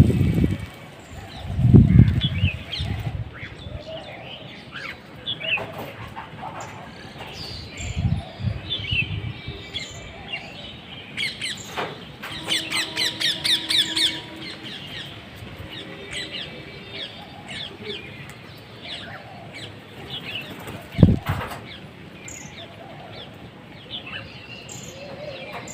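Small birds chirping over and over in short high calls, with a fast run of chirps about halfway through. A few short low thumps stand out, the loudest near the end.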